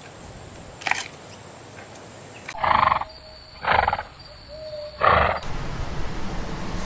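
Wild animal calling: a weak call about a second in, then three loud, short calls less than a second apart over a steady hiss.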